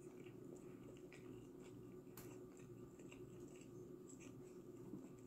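Faint chewing of a mouthful of pizza, with scattered small wet mouth clicks over a low steady room hum.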